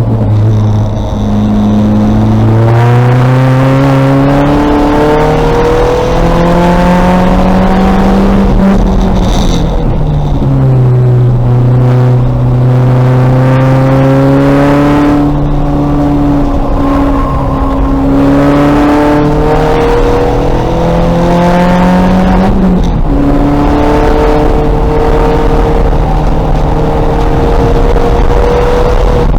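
2000 VW Golf race car's engine at racing revs on track. The engine note climbs slowly and drops sharply about ten seconds in and again about two-thirds of the way through, as the car shifts gears and brakes.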